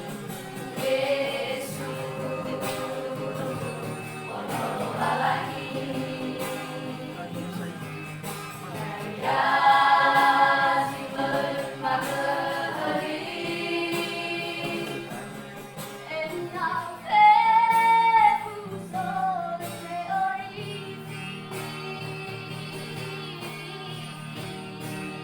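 A school vocal group singing a gospel worship song in parts. A louder high voice sings a held, wavering high line above the group about two-thirds of the way through.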